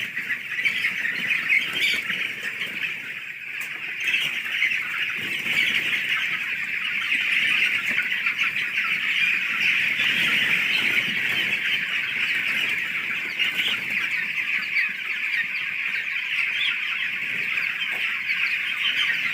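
A large flock of poultry-farm chickens calling together: a dense, unbroken chorus of many overlapping clucks and peeps.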